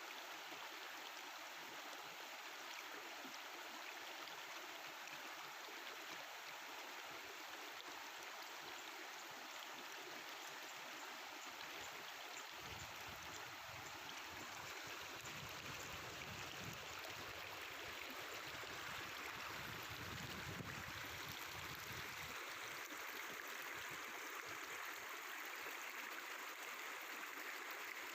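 Mountain river flowing over rocks with a steady babbling rush of water. A low rumble underlies it for about ten seconds in the middle.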